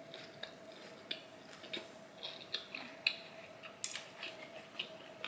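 Close-miked chewing of a mouthful of sushi: irregular soft clicks and smacks from the mouth, with a sharper click about four seconds in. A faint steady tone hums underneath.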